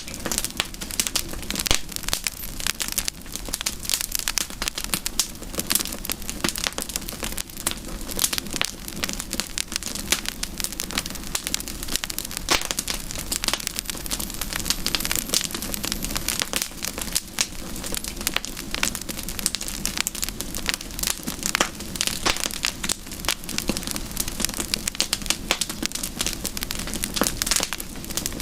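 Wood campfire burning, with dense, irregular crackling and popping that never lets up, over a steady low hiss of flame.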